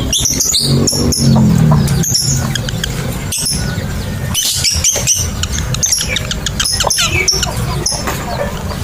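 Lovebirds calling: many short, shrill chirps and squeaks coming in quick irregular clusters, over a low steady hum.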